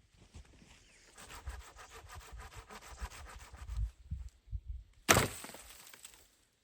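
Wooden branches being worked by hand: a stretch of quick rasping strokes with low thumps, then one loud sharp crack about five seconds in.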